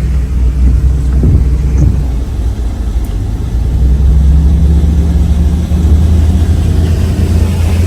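A motor vehicle's engine running with a steady low hum and rumble, settling into an even drone about halfway through.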